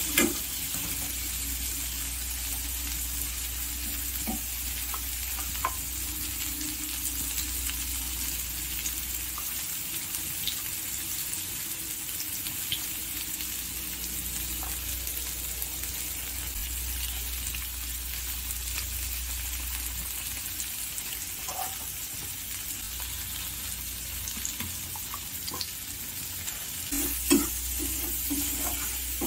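Paneer, peas and onions sizzling in hot oil in a kadai, a steady frying hiss with a few light pops. A steel spatula scrapes and stirs the pan at the very start and again, louder, near the end.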